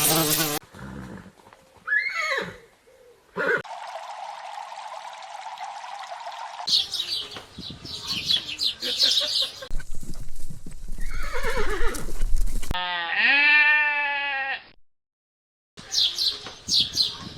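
A string of different animal calls spliced one after another with abrupt cuts: short sliding calls, a patch of steady noise, bursts of high repeated chirping, and a long pitched call that bends up and down, followed by a brief gap of silence.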